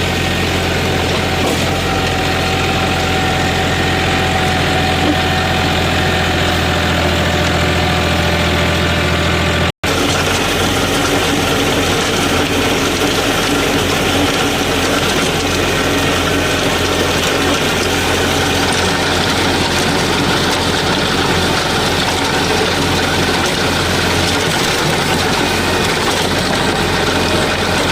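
Mahindra OJA 2130 compact tractor's diesel engine running steadily under a rotavator load. The sound cuts out for an instant about ten seconds in, then carries on rougher and noisier.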